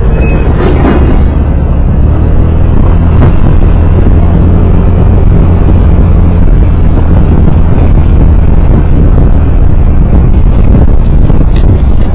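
Road vehicle running steadily at speed, heard from on board: a loud, even low engine hum with road and wind noise over it.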